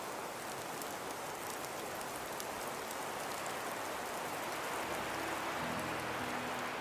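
Steady rain with light pattering drops. Soft music fades in underneath near the end.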